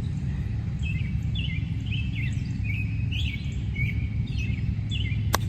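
Birds chirping: a string of short, quick chirps repeated over several seconds, above a steady low rumble. A single sharp click comes near the end.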